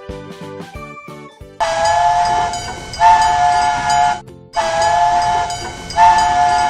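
Cartoon steam-train whistle sound effect: two long blasts over a hiss of steam, each swelling louder partway through. A few soft notes of children's music come before them.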